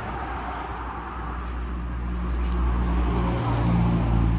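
A motor vehicle's engine running past, growing louder to a peak near the end and then fading: traffic passing by.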